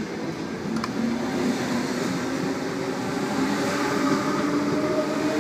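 Sydney Trains Tangara electric train running past, its traction motors whining in a tone that rises slowly as it gathers speed, over the rumble of wheels on track.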